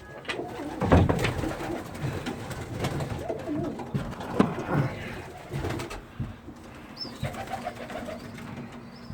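Racing pigeons cooing in a small loft, with a few scattered knocks and rustles from the birds moving about.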